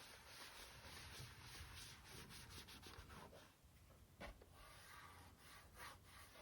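Faint, quick rubbing strokes over the plastic case of a Sony PS4 Slim as it is wiped clean, with one sharper stroke about four seconds in.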